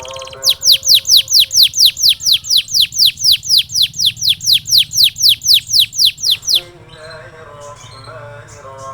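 Canary singing a fast trill of repeated high notes, each sweeping downward, about four a second, that stops abruptly about two-thirds of the way through; fainter chirps follow.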